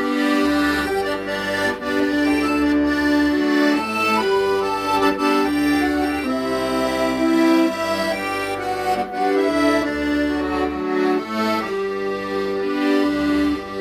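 Accordion playing a slow, sustained melody in held notes and chords over bass notes that change every second or two.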